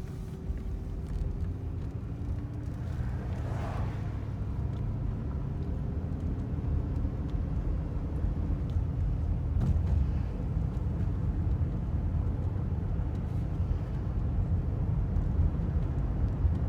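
Mercedes 500SL's M119 V8 engine and road noise of the car being driven at low speed, a steady low rumble that grows gradually louder.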